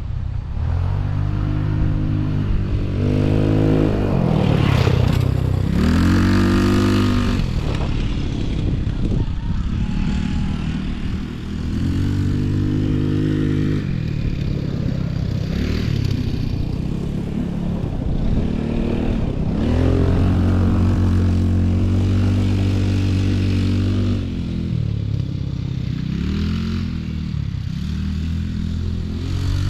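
Off-road vehicle engine riding under changing throttle: its pitch climbs and drops again and again as it accelerates and eases off, with one longer steady stretch past the middle.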